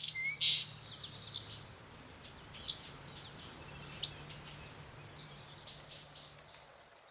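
Birds chirping: a quick flurry of chirps at the start, then scattered short calls with one sharp call about four seconds in, over a faint steady low hum. It fades out near the end.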